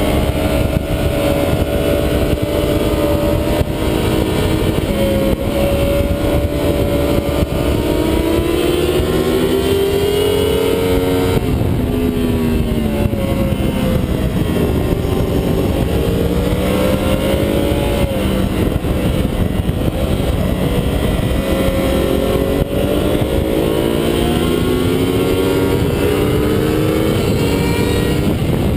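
2009 Yamaha R1's crossplane inline-four at speed on track: the engine note climbs steadily for about ten seconds, drops sharply and sinks, then climbs again twice with a dip between and a fall near the end. Heavy wind rush on the bike-mounted microphone under it.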